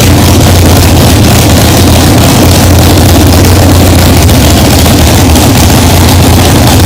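Derby car engine running at a steady speed, very loud and distorted on the recording.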